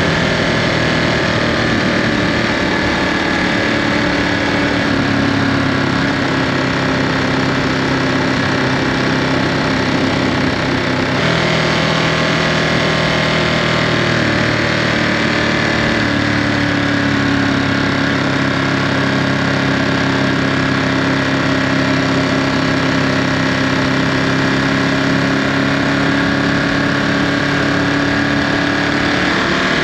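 Ducati Monster 937's Testastretta L-twin engine running through its stock Euro5 exhaust while the bike is ridden. The engine note holds fairly steady, steps abruptly about eleven seconds in, and rises near the end as the revs climb.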